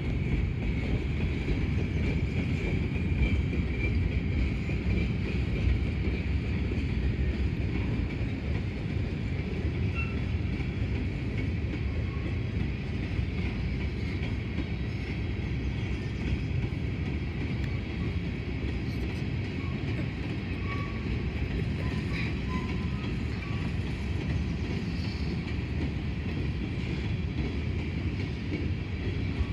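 Covered hopper cars of a freight grain train rolling past: a steady low rumble of steel wheels on rail, with a faint high-pitched ring above it.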